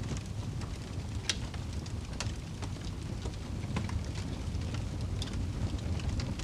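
Wood fire burning in a fireplace: a steady low rumble of flames with scattered sharp crackles and pops from the logs, a loud pop about a second in.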